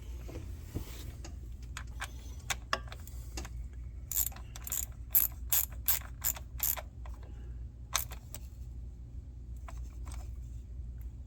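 Hand ratchet clicking as the coil pack's hold-down bolt is run down into the aluminium cylinder head: a quick run of clicks about four a second midway through, then a single click.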